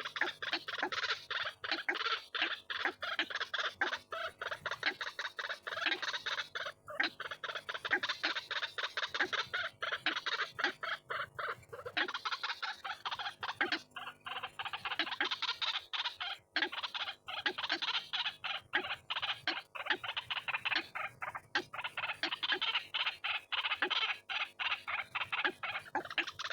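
White-breasted waterhens calling: a continuous run of rapid, harsh repeated notes, many a second, with only brief pauses.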